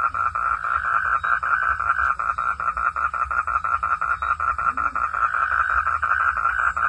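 Frogs calling at night in a steady, rapid pulsing call, about seven pulses a second, with faint higher insect trills behind it.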